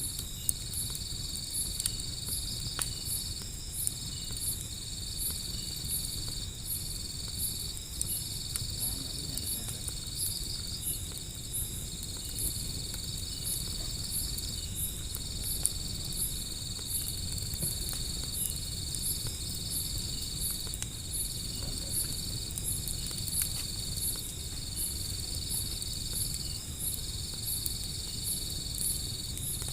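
Crickets and other insects chirping on and on: one a high continuous trill broken by short gaps every second or two, another a higher pulsing chirp about twice a second. Under them is a low rumble with a few sharp crackles from a burning wood fire.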